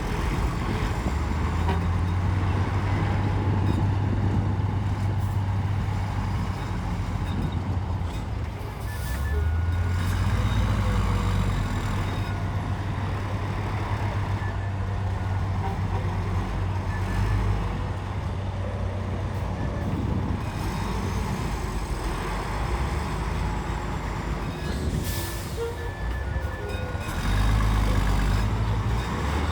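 Heavy diesel earthmoving machinery working, its engine drone swelling and easing under changing load. There is a brief dip about eight seconds in and a louder push near the end.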